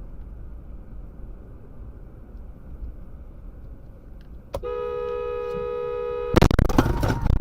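Low rumble of a car on the road, then a car horn sounds a steady tone for under two seconds about four and a half seconds in, cut off by a loud, harsh burst of impact noise near the end.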